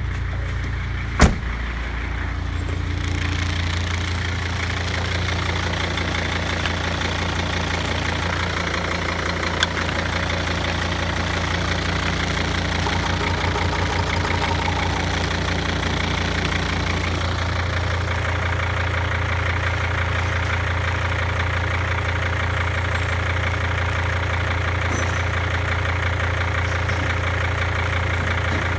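Mercedes W203 CDI common-rail diesel engine idling steadily, with a sharp click about a second in and a lighter one near ten seconds.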